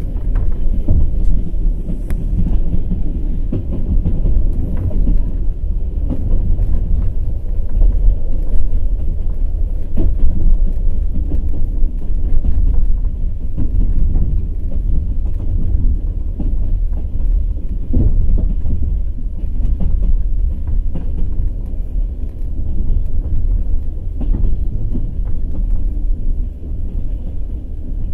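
Passenger express train running at speed: its wheels clatter over the rail joints, with short knocks over a steady low rumble.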